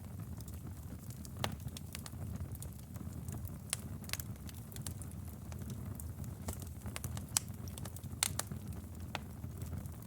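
Wood fire burning in a fireplace: a steady low rumble of flames with irregular sharp pops and crackles, a few louder snaps among them.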